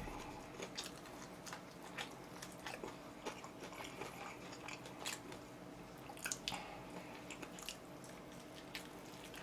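Faint eating sounds: soft chewing and bites into chicken, with scattered small clicks and a few short crackly bursts.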